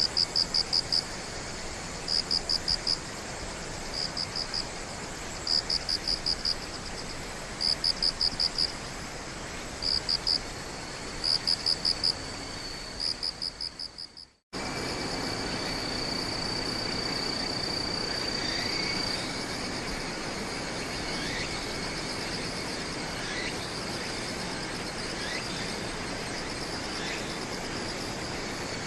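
Night insects calling: high chirps in short pulsed bursts about every one to two seconds, fading out about halfway. After a brief dropout, a steady, high insect trill takes over, with a fainter lower tone beneath it.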